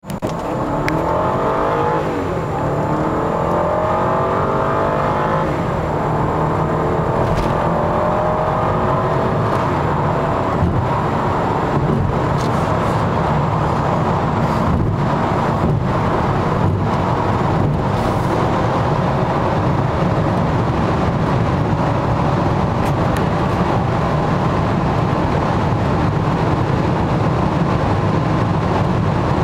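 The 4.4-litre V8 of a 2004 BMW 545i accelerating hard from a standstill, heard from inside the cabin. Its pitch climbs and falls back at upshifts about two seconds in and again around five seconds. It then rises slowly as road and wind noise build at high speed.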